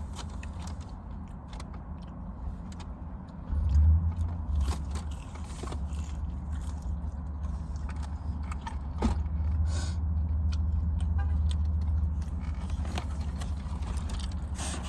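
Eating sounds: chewing, with scattered small clicks and scrapes of food and packaging, over a steady low rumble that gets louder about three and a half seconds in.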